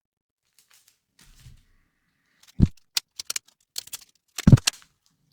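Items being handled during an unboxing: scattered clicks and rustles, with two soft thumps about two seconds apart, the second the loudest.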